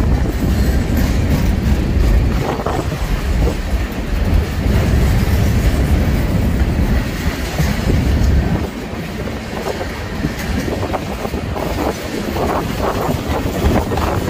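Freight train rolling past, with rumble and the clickety-clack of wheels on rail joints. The heavy low rumble eases about two-thirds of the way through.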